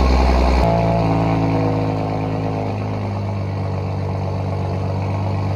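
Car engine running as the car drives, its pitch jumping about half a second in and then settling lower.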